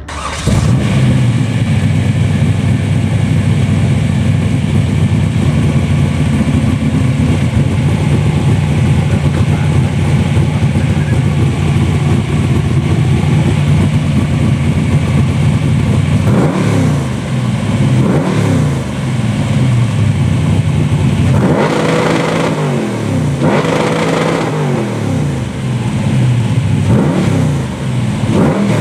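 1999 Chevrolet Camaro SS's 5.7-litre LS1 V8 running through 3-inch stainless-steel QTP AR3 race mufflers. It idles steadily at first, then is revved in several quick throttle blips over the last dozen seconds, each rising and falling back to idle.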